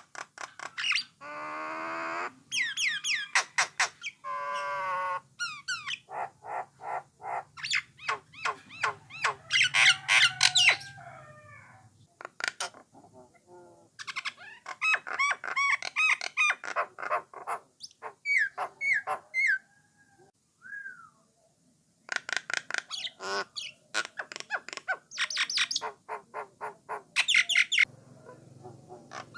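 Jalak Nias starling singing a long, varied song. It mixes rapid dry clicking runs, warbling whistled notes and harsher squawks, with short pauses between phrases.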